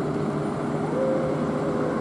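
Fire engine's engine running steadily, with a faint steady whine joining about a second in.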